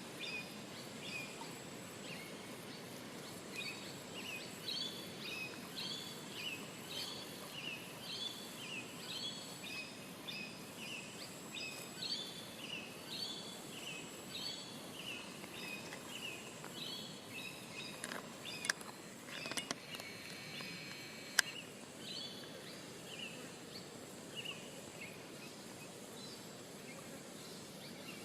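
A bird calling over and over in short, high, falling chirps, about one and a half a second, over a faint steady insect whine and outdoor background. A few sharp clicks come a little past the middle.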